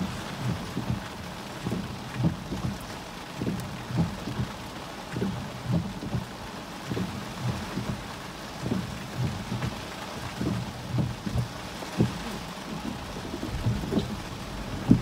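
Heavy rain beating on glass and a roof, heard from inside, with many irregular dull thuds of big drops over a steady hiss of rain. There is one sharper knock near the end.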